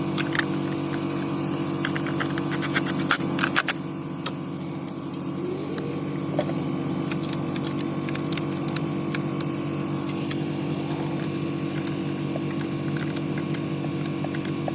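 An engine idling steadily, with a quick run of sharp clicks about three seconds in.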